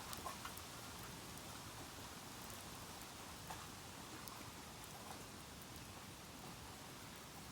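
Bamboo burning on an open campfire: a faint, steady crackling hiss dotted with small clicks, and a few sharper snaps, one just after the start and one about three and a half seconds in.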